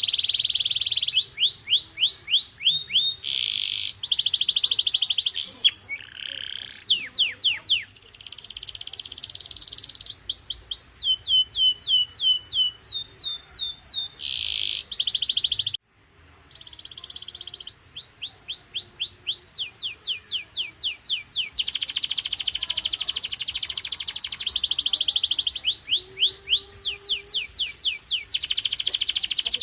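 Canary singing a long, high-pitched song of rapid rolls: each phrase is a fast run of the same falling note or a buzzy trill, changing every second or two. The song breaks off briefly about sixteen seconds in.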